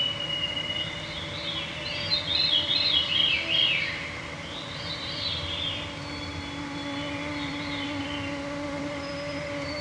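Mosquitoes whining in a steady hum around the microphones, while songbirds sing over it. About two seconds in, a loud fluty phrase spirals down in pitch, and a second falling phrase follows just after.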